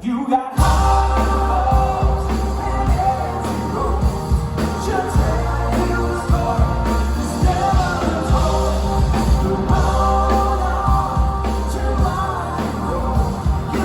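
Live rock band playing loud, with drums, bass and a pitched lead line over the top. The sound drops out for about half a second right at the start, then the full band comes back in.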